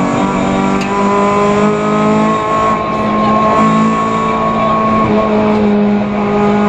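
Peugeot 206 F2000 rally car's engine heard from inside the cabin, running at fairly steady revs with a brief dip in pitch twice in the middle.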